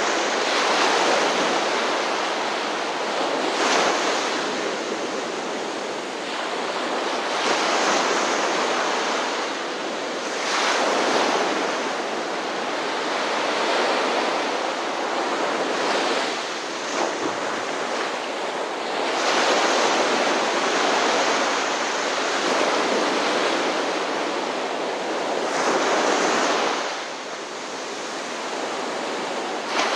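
Ocean surf: waves breaking and washing on a shore, the rush of water swelling and easing every few seconds.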